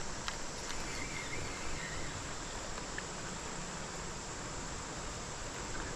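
Steady outdoor ambience of summer insects, crickets chirring in an even hiss, with a few faint clicks.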